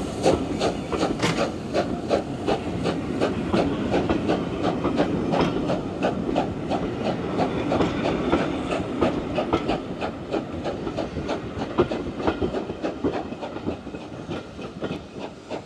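Steam train on the West Somerset Railway running, with a quick, even beat of knocks about three a second over a steady clatter, growing quieter toward the end.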